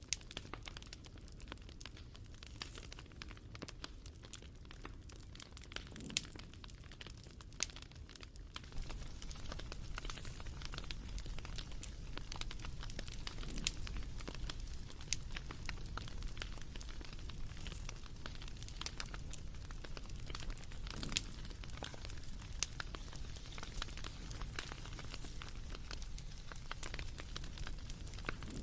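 Wood fire crackling, with scattered sharp pops and snaps over a low steady rush that grows louder about nine seconds in.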